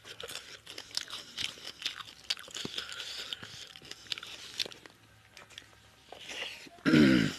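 Close, crunchy chewing of raw onion, many quick crisp crunches. About seven seconds in comes a short, loud sound from the eater's voice that falls in pitch.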